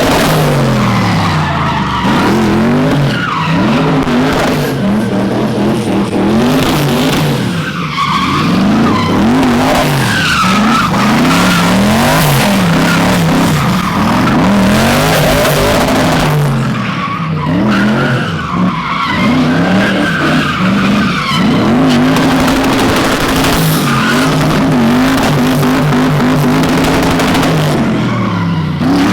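Drift car engine revving hard and falling back again and again, with its tires skidding and squealing.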